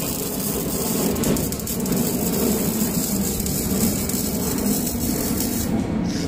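A power tool working on the steel of a cast steel anvil gives a loud, steady grinding hiss, which thins for a moment near the end.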